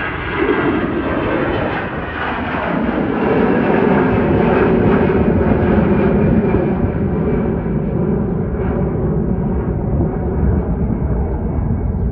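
Delta Airbus A321-211 jet airliner passing close by, its twin CFM56 turbofans making a loud, dense rumble and roar. The higher hiss thins out over the last few seconds while the low rumble carries on.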